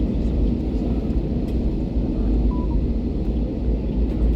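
Steady low rumble inside an airliner's cabin as the aircraft taxis after landing: engine and rolling noise with a few faint ticks.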